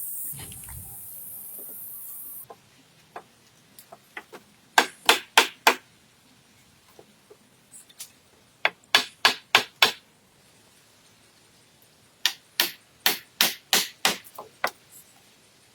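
Three runs of sharp blows from a hand tool striking wood, about three blows a second, the last run the longest.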